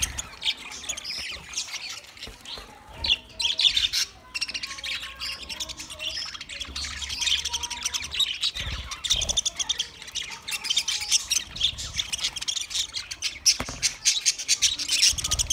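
A flock of budgerigars chirping, warbling and squawking all at once in a constant dense chatter, with a few low thumps.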